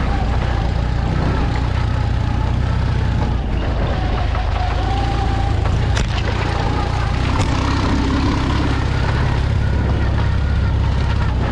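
Off-road vehicle engine running steadily under way, a loud low drone, with a couple of sharp knocks about six and seven and a half seconds in.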